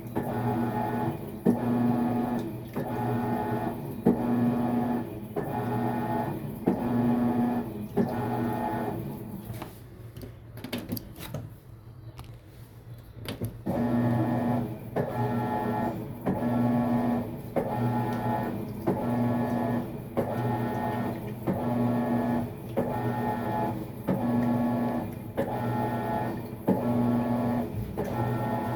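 Maytag MVWX655DW1 top-load washer agitating during a tub clean cycle: the drive motor hums in even strokes about every 1.3 seconds, one after another, with a pause of about three seconds near the middle.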